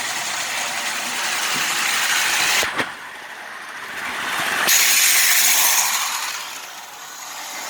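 Lionel model train running on its track: a steady rolling rattle of metal wheels on the rails with the motor's hum. The sound drops abruptly a little under three seconds in, then swells louder around the middle and fades toward the end.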